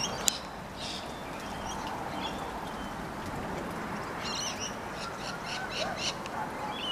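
Small birds chirping and calling, with a quick run of short repeated calls about four seconds in, over a steady background hiss. A single sharp click comes right at the start.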